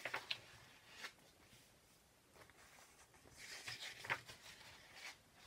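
Faint rustling and a few soft clicks of a paper picture book being handled, with a cluster of rustles near the end.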